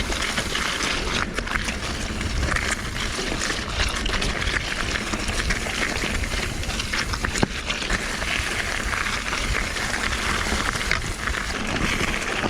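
Mountain bike ridden over a wet, rocky trail: steady rolling and wind noise with constant small rattles and clicks from the bike.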